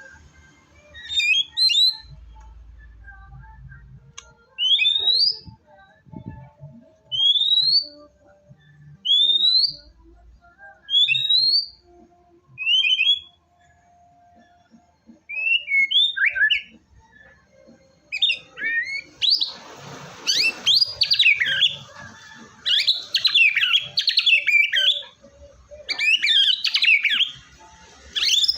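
White-rumped shama (murai batu) singing: a series of clear rising whistles, one about every two seconds, then past the middle a faster, denser run of varied warbled phrases.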